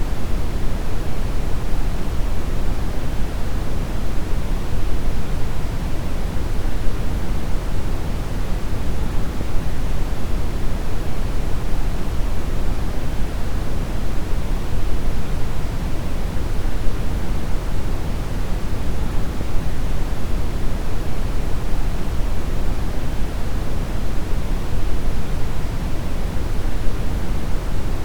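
Steady brown noise: an even, deep rushing hiss with most of its weight in the lows, unchanging throughout.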